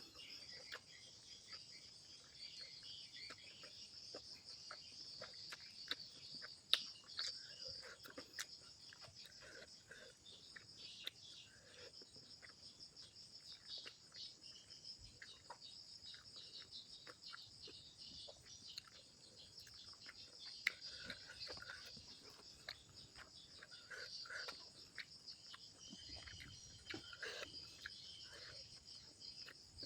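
A steady, high-pitched chirring of crickets or other insects, with faint chewing and small clicks of eating scattered over it.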